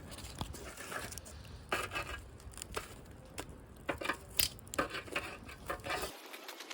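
A series of irregular clinks and knocks, like cookware or dishes being handled, over a low rumble that cuts off suddenly near the end.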